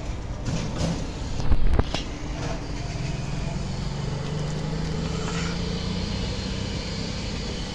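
Truck diesel engine running steadily, its pitch rising slowly a few seconds in. A loud thud a little under two seconds in.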